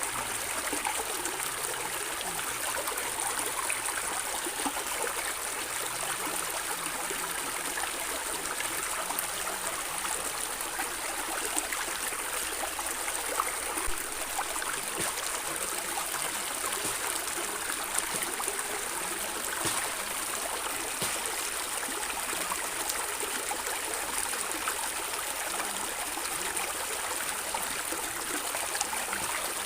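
Stream water flowing and gurgling steadily over stones, with small splashes and trickles throughout.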